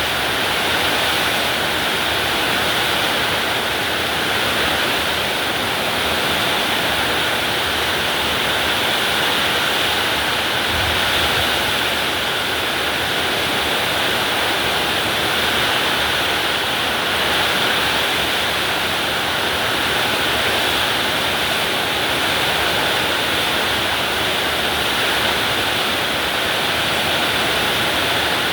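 Heavy rain pouring down steadily in a rainstorm, a dense even hiss that does not let up.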